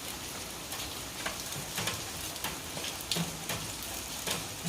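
Steady rain falling, a constant hiss with scattered sharp drop taps on nearby surfaces.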